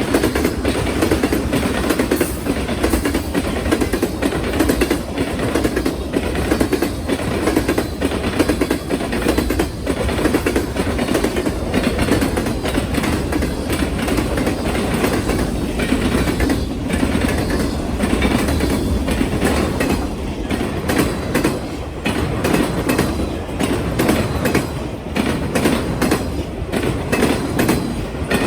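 Train cars rolling over a railway diamond crossing: a steady rumble with rapid, irregular clattering knocks as the wheels bang across the gaps where the rails cross.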